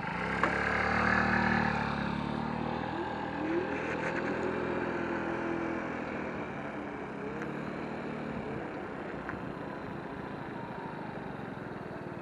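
A motor vehicle going by, loudest in the first couple of seconds, then fading, its pitch sliding up and down.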